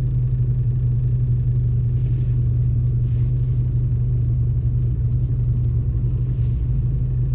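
Fiat Punto mk2's four-cylinder petrol engine idling steadily at about 740 rpm, a constant low hum.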